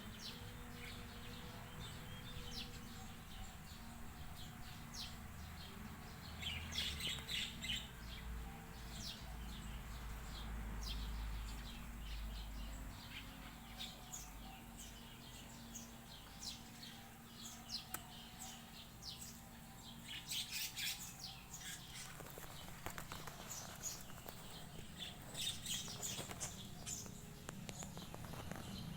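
Small birds chirping in short, high bursts that come in clusters, over a faint steady background. A low rumble runs for a few seconds about a third of the way in.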